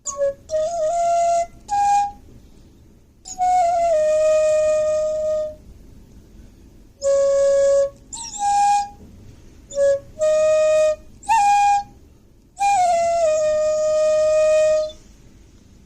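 Solo flute playing a slow, breathy melody of held notes in short phrases, with pauses between them.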